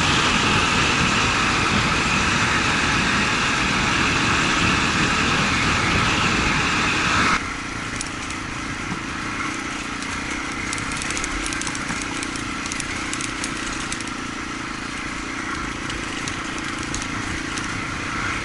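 Honda XR250 motorbike on the move, its engine running under heavy wind rush. About seven seconds in the sound cuts abruptly to a slightly quieter stretch of riding noise with scattered crackling.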